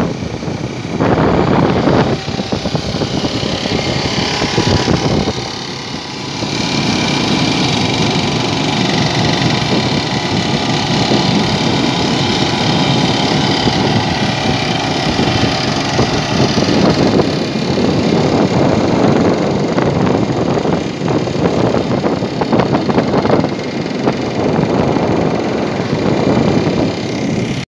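Small motorcycle engines running on the move: a vintage Monet-Goyon Starlett ridden close alongside the filming scooter, whose own engine is mixed in. The level dips briefly about six seconds in, and a faint steady whine runs through the middle stretch.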